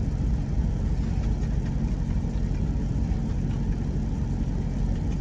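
Steady low engine drone of an idling semi-truck, heard from inside the cab.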